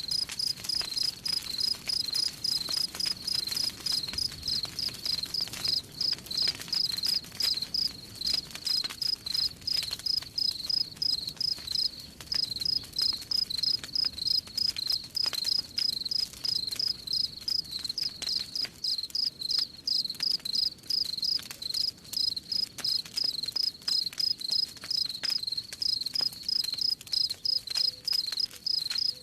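Crickets chirping in a fast, even rhythm, with a campfire crackling underneath in scattered small pops.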